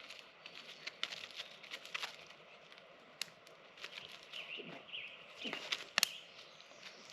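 A scattered series of light clicks and knocks, with a few short scraping rustles about two-thirds of the way through, over quiet outdoor background.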